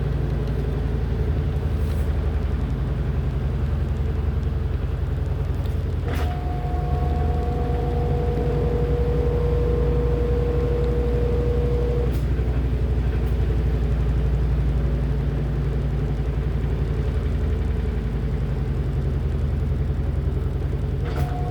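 LG top-loading washing machine running mid-cycle: a steady low motor hum and rumble, with a faint whining tone that comes in or shifts pitch at a light click about six seconds in, drops out at another click about twelve seconds in, and returns near the end.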